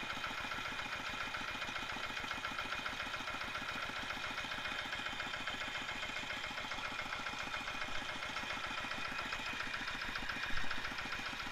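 Tractor diesel engine, running on new piston rings, idling steadily with an even, fast firing rhythm; it runs smoothly. A brief thump sounds near the end.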